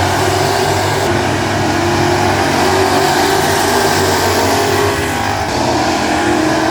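Classic-class dirt track race cars' engines running at speed together, several engine notes overlapping in a steady, loud drone that dips slightly about five seconds in.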